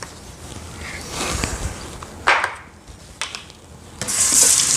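Clicks and knocks of a carpet cleaner's plastic tank being handled, with a short scraping rustle midway. A sink tap is turned on near the end and water starts running steadily.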